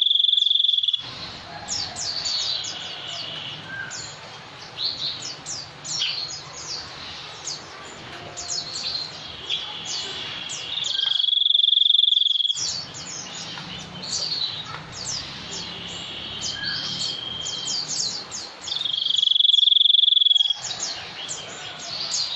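Birdsong of the bird called 'sniper' in Indonesian. A loud, steady, high whistle lasting about a second and a half comes three times, about eight to nine seconds apart, over a busy chorus of quick, high, falling chirps.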